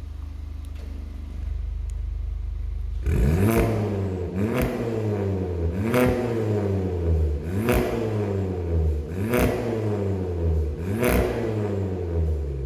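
Seat Ibiza 1.2 TSI turbocharged four-cylinder running through a full 63 mm stainless exhaust with a de-cat downpipe and a Varex muffler. It idles steadily, then about three seconds in it is blipped six times, roughly one and a half seconds apart, each rev rising quickly and falling back to idle.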